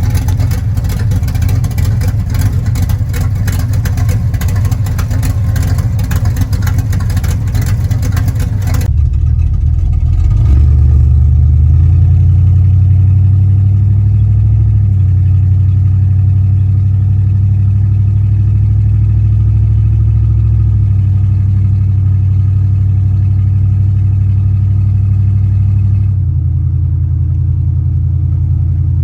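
Chevy 350 small-block V8 running: about nine seconds of loud, harsh engine noise, then a change to a steady low drone whose pitch shifts up and down several times.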